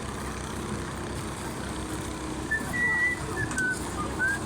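A few short, high whistled notes, some held level and one gliding upward, over a steady low rumble.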